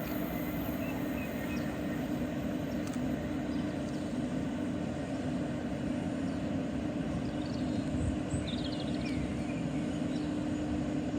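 Train running through the station with a steady drone and a constant hum. A few short bird chirps come about eight seconds in.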